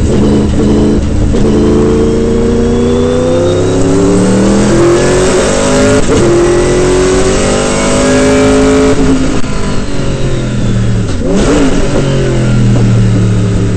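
Sauber Mercedes C9 race car's twin-turbo V8 accelerating hard up through the gears, the pitch climbing and dropping back at each upshift, with a thin high whine from the straight-cut Hewland gearbox rising with it. Near the end the revs fall away briefly, then hold steady.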